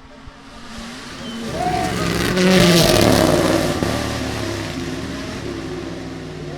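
A rally car approaches at speed with its engine revving and changing pitch, then passes close by with a rush of tyre noise and fades away.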